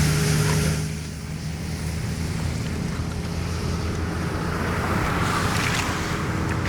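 Rushing water over a steady low engine-like hum. The rush drops off about a second in and builds up again near the end.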